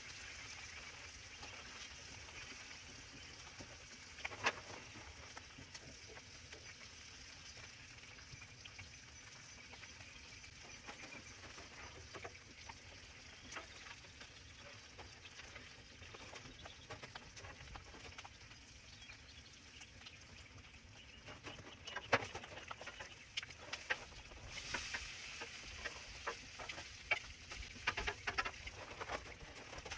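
Bacon and egg-in-bread frying on a Blackstone flat-top griddle with a faint, steady sizzle. A metal spatula clicks and scrapes on the griddle plate about four seconds in, again around twenty-two seconds, and several times near the end.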